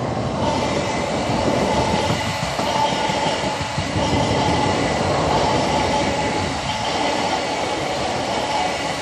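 Electric passenger train passing close by: a steady loud rumble of wheels on rails with a faint steady whine over it.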